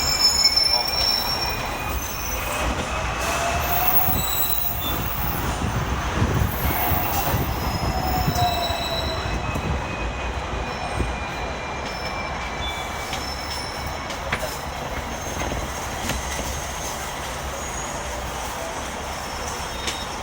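Hong Kong electric tram running on its rails: a steady low rumble with high, thin wheel squeals that come and go as it moves along the track.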